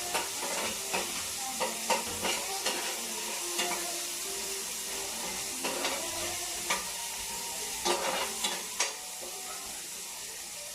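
Food frying in hot oil in a pan with a steady sizzle, while a utensil knocks and scrapes against the pan at irregular moments; the knocks stop near the end.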